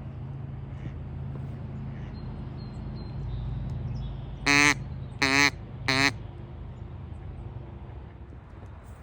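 Three loud, nasal duck quacks in quick succession, a little past the middle, each under half a second long.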